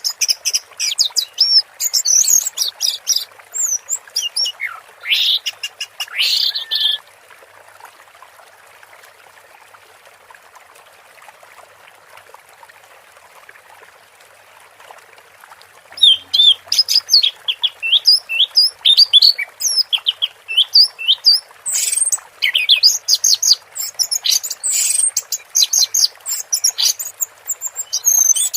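Orange-headed thrush singing in fast runs of high chirps and whistles, falling silent for about nine seconds in the middle before starting again.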